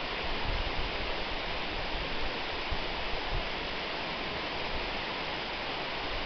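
Waterfall: a steady, even rush of falling water, with a low rumble underneath.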